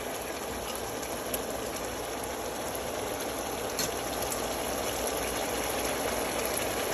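Chopped onions and garlic sizzling steadily in hot oil, with a few faint crackles.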